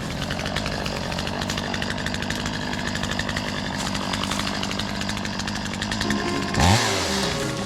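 Chainsaw running steadily while cutting up a fallen rotten tree, revved up sharply once near the end.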